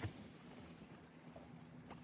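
Quiet background with a faint steady low hum, a soft knock at the start and another near the end.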